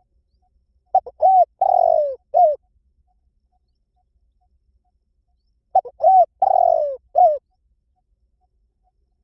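Spotted dove cooing: two phrases about five seconds apart, each a few short coos around one longer, falling coo.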